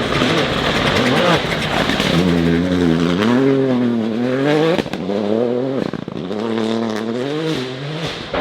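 Rally car engine under hard throttle, its note climbing and falling. It cuts off sharply just before five seconds in, then climbs again.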